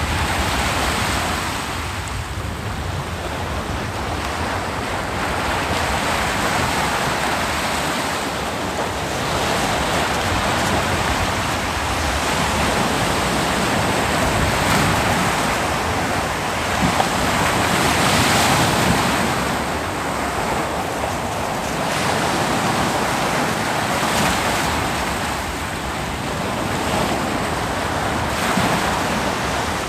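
Ocean waves breaking on a beach, a continuous surf wash that swells and eases every few seconds, with one of the stronger swells a little past the middle.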